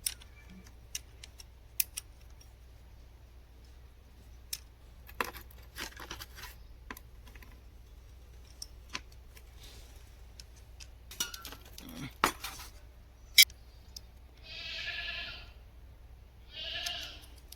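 A goat bleating twice near the end, a longer call then a shorter one. Before that, scattered light clicks and knocks.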